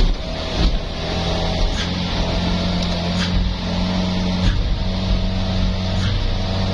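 Truck engine running steadily, with a handful of short sharp knocks and rattles.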